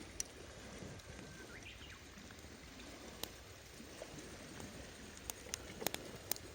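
Wood campfire crackling, with irregular sharp pops over a low steady rumble; the pops come thicker near the end.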